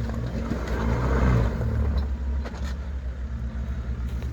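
A Nissan Patrol 4WD's engine revs up and back down in the first second or so, then runs at a steady low note as the vehicle crawls over a rocky obstacle, with a few faint sharp knocks about halfway through.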